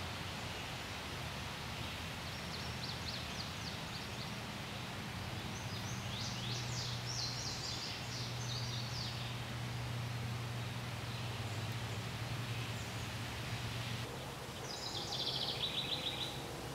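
Outdoor woodland ambience: songbirds singing in short groups of quick, high chirping trills over a steady hiss, with a low steady hum under the middle part. A last falling trill comes just before the end.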